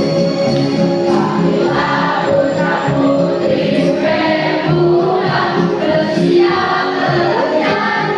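Choir singing with instrumental accompaniment, the voices coming in about a second in.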